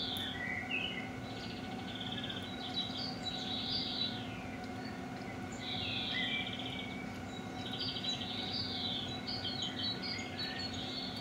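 Birdsong: several birds chirping and trilling in repeated phrases, over a steady low hum.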